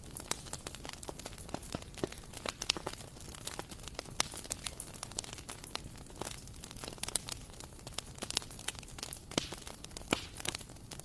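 Bonfire burning: wood crackling and popping in irregular sharp snaps over a steady low rush of flame.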